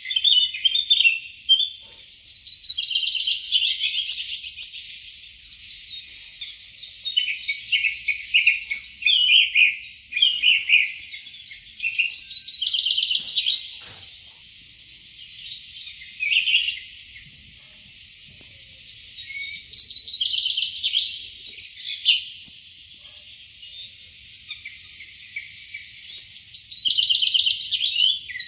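Several small birds chirping and singing over one another without a break, with many quick, even trills.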